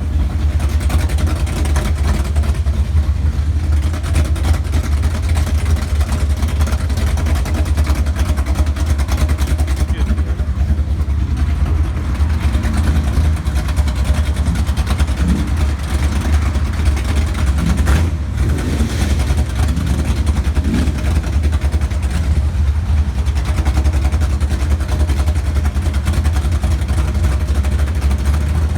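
A car engine running steadily without revving, a low even rumble, with faint voices in the middle.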